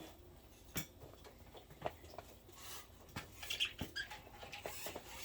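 Pet budgerigars moving about and pecking in their cage: scattered light clicks and scratches, about five of them sharper than the rest.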